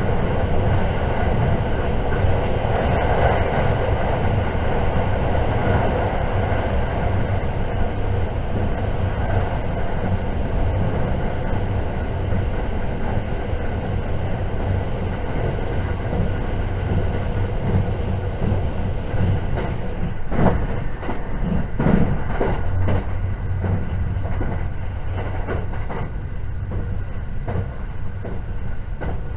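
Inside the passenger cabin of a JR 681 series limited-express electric train running at speed: a steady rumble with a faint whine of several tones over it. A few sharp clacks come about twenty seconds in.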